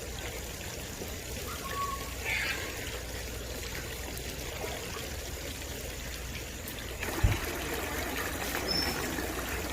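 Water trickling and running steadily, with a couple of faint short bird chirps and a brief low thump a little past seven seconds in.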